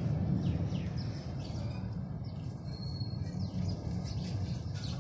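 Small birds chirping: a scatter of short, high, falling chirps, most of them in the first two seconds, and one brief high whistle near the middle, over a steady low rumble.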